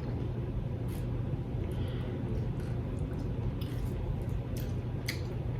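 Steady low hum with a few faint, scattered wet clicks.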